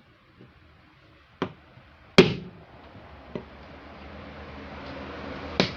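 Four sharp knocks from work on a washing-machine seal. The loudest comes about two seconds in and rings briefly, over a faint hiss that grows louder in the second half.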